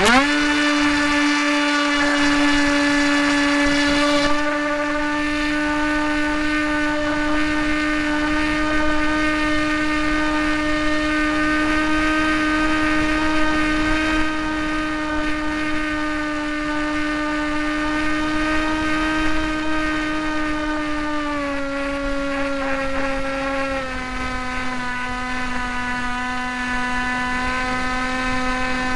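Electric motor and propeller of a Hawk Sky foam RC plane in flight, spooling up sharply and then running at a steady high whine. The pitch drops in two small steps late on as the motor slows, with a low wind rumble underneath.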